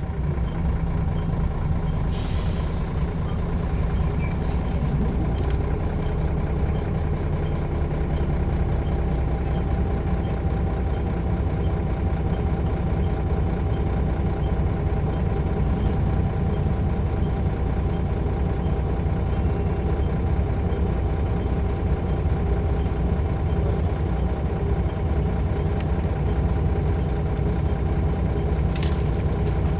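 Scania L94UB bus engine running steadily, its pitch stepping up about five seconds in, with short hisses of compressed air from the air system around two seconds in and again near the end.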